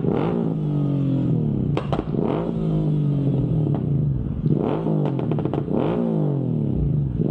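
Motorcycle engine on the move, its pitch dropping and levelling off every second or two as the throttle changes.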